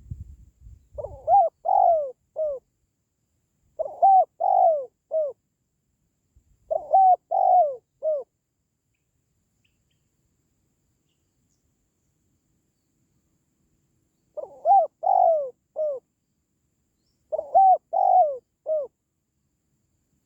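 Spotted dove (tekukur) cooing: five short phrases of a few coo notes each, every note rising and then falling in pitch. Three phrases come about three seconds apart, then a pause of about six seconds, then two more.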